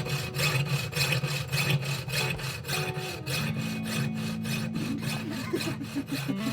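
Hand tile saw being drawn back and forth through a ceramic floor tile in quick, even strokes, about four a second. It is a rasping, slow hand cut that is making little headway through the tile.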